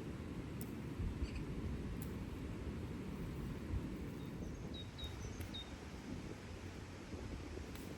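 Outdoor ambience: a steady low rumble, with a few faint light clicks and, from about five seconds in, several short high chirps of a small bird.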